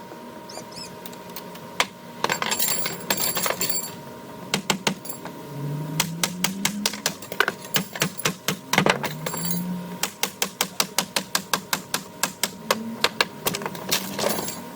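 Wooden deck railings being knocked and pried apart, played back fast-forward, so the blows come as a rapid clatter of sharp knocks, densest near the end at about four or five a second.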